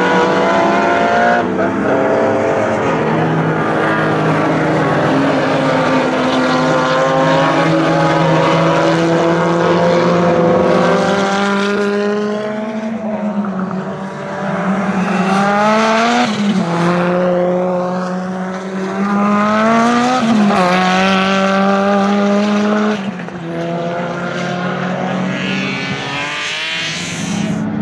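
Race car engine running hard on a circuit. Its pitch climbs under acceleration and drops sharply at gear changes, several times over.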